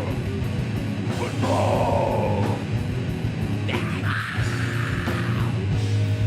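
Heavy metal band playing live and loud, with two long held notes over the band, the second one higher.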